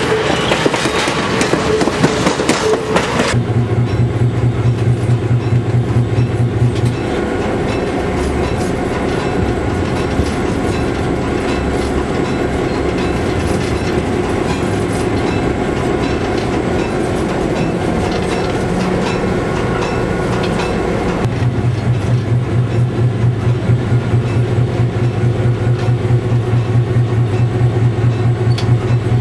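Passenger cars rolling past on the rails with a clickety-clack for about three seconds, then the inside of the cab of a moving EMD FP7 diesel locomotive: a steady engine drone with wheel and rail noise. A deeper, throbbing hum comes in, drops away around seven seconds, and returns about two-thirds of the way through.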